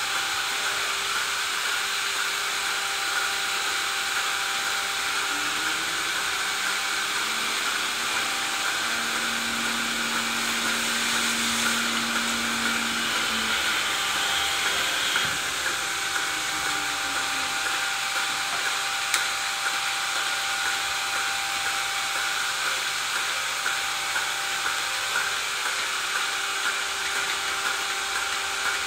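Steady machinery noise: a constant hiss and whir with a fixed hum, unbroken throughout. A fainter tone rises and holds for a few seconds about a third of the way in.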